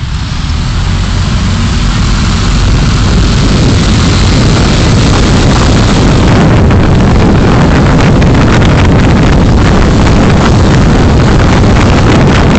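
Car driving noise picked up by a dashcam: a loud, steady rush of road and wind noise with a low rumble. It grows louder over the first two seconds, and many small crackles join it from about six seconds in.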